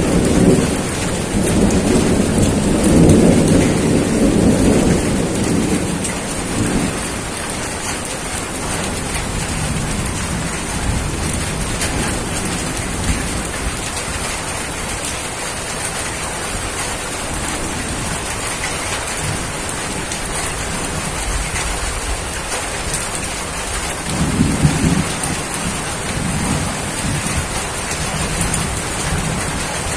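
Steady heavy rainfall, with a low rolling rumble of thunder during the first several seconds and a shorter rumble about three-quarters of the way through.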